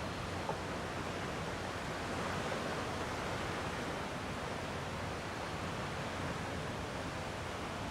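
Gentle sea waves washing steadily on the shore, a soft continuous rush with a slight swell about two seconds in.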